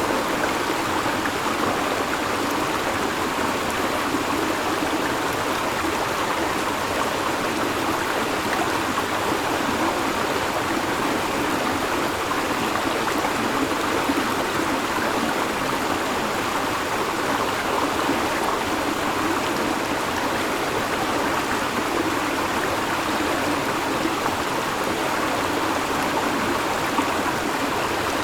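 River water flowing, a steady rushing and babbling that stays even throughout.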